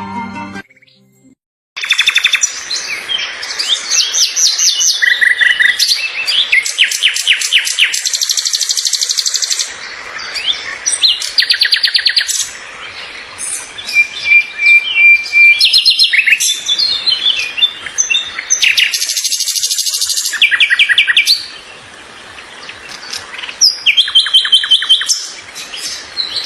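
A songbird singing loud, varied phrases of rapid chirps and trills, starting about two seconds in, with short pauses between phrases.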